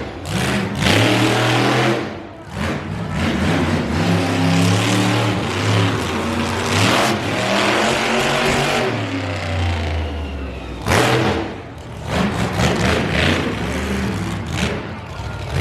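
Monster truck engine revving hard, its pitch rising and falling with the throttle and winding down around the middle.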